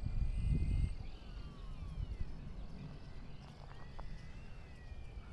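Wind rumbling on the microphone, strongest in the first second, with the faint high whine of a small electric RC plane's motor and propeller sliding down in pitch as it flies past.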